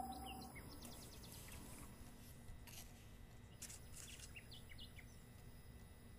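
Near silence: faint background hiss with scattered short, faint bird chirps that dip in pitch.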